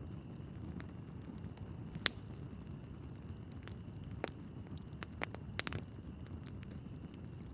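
Wood fire burning in a fireplace: a steady low rumble of flames with irregular sharp crackles and pops from the logs, the loudest about two seconds in and a quick cluster around five and a half seconds.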